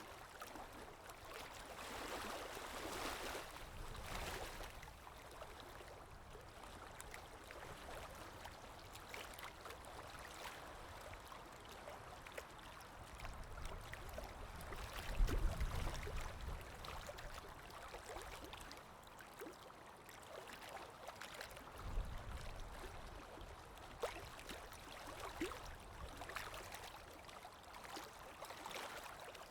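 Calm sea waves washing and lapping in slow swells, with gurgling water. Two brief low thuds come about halfway through and again a few seconds later.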